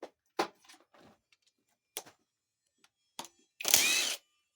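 Light metallic clicks of a 7/16 socket being swapped and fitted, then a cordless power driver spinning briefly, about half a second with a rising whine, as it turns out a transmission bolt.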